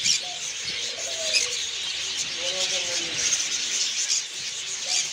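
Many caged birds chirping and squawking at once: a dense, steady high chatter with a few shorter, lower calls over it.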